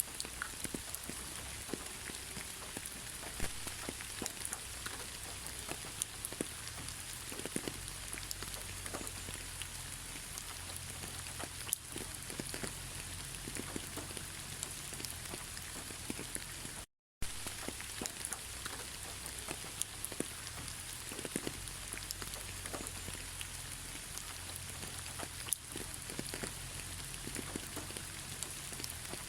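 Steady rain falling, a constant hiss with many separate drops tapping on a surface. The sound cuts out completely for a moment about halfway through, then resumes.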